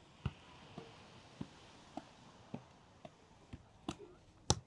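A football being juggled: a string of light, sharp taps of foot on ball, about two a second.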